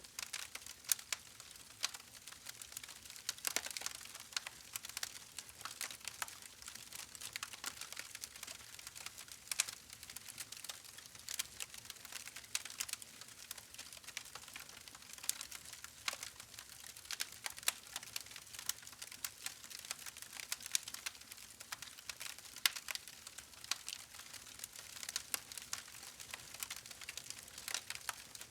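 Wood fire crackling steadily: a soft hiss with many sharp, irregular pops and snaps.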